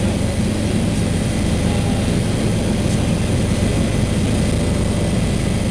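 Helicopter rotor and engine heard from aboard in flight: a steady, loud, low drone with a fast flutter.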